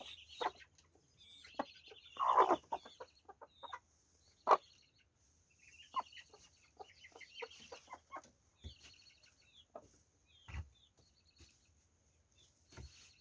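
Chickens clucking, with a louder, longer call about two seconds in and a sharp short call a couple of seconds later, among scattered short clicks and a few dull thumps.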